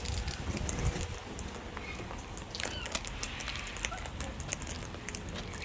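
Wild cockatoos and lorikeets calling softly and chattering while they feed, over many scattered sharp ticks.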